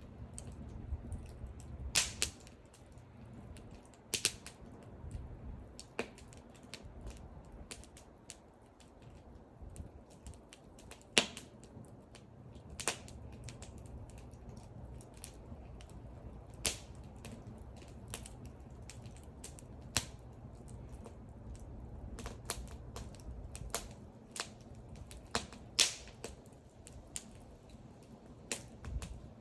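Wood fire burning: irregular sharp crackles and pops from the burning wood, a few much louder snaps among many small ones, over a low steady rumble of the flames.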